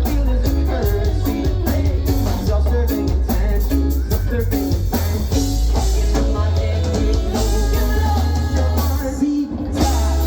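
Live rock band playing a song, with drum kit, bass and electric guitar. About nine seconds in, the bass and drums stop briefly, then the band comes back in.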